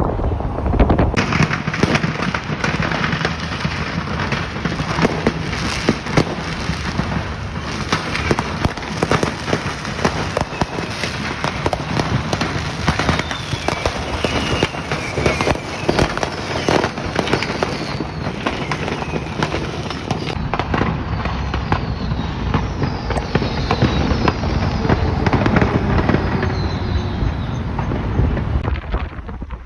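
Store stock of fireworks going off in a fire: continuous rapid crackling and popping, with whistling fireworks gliding in pitch through the middle and later part.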